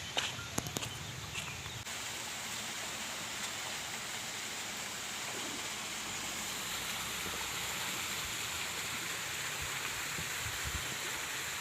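Steady rush of flowing water from the waterfall's stream. A few light knocks come in the first two seconds.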